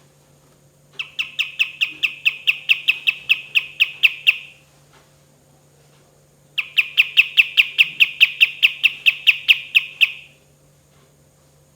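Kapas tembak songbird singing two long rolling series of rapid, evenly repeated sharp notes, about five or six a second, each series lasting about three and a half seconds with a pause between; a faint steady hum lies underneath.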